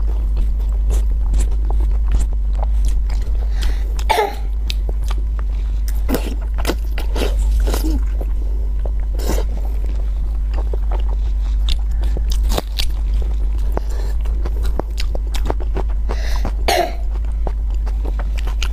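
Close-up chewing of gelatinous braised pig-skin rolls in chili sauce: many wet smacks and clicks of the mouth, with two louder mouth sounds about four seconds in and near the end. A steady low hum runs underneath.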